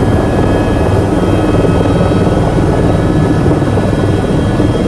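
Tour helicopter running loud and steady: a dense low rotor beat with a thin steady whine from the turbine above it.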